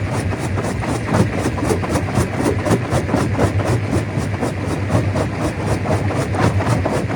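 Stone crusher running under load: a steady low machine hum with a dense, continuous clatter of rock being broken and rattling through it.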